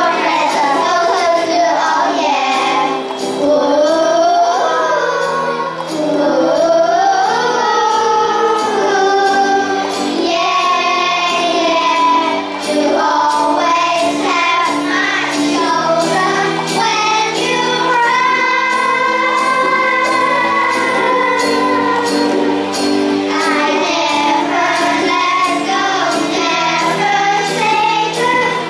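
A song sung by children's voices in unison, with a steady beat.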